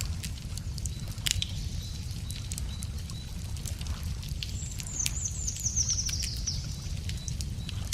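Wood campfire crackling, with scattered sharp pops over a steady low rumble. About five seconds in, a bird sings a fast trill that falls in pitch.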